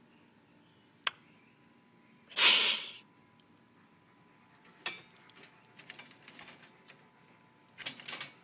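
A cornered wild bird hissing once, a short loud hiss about two and a half seconds in, set between sharp clicks and scattered rustling and scraping as it is poked at.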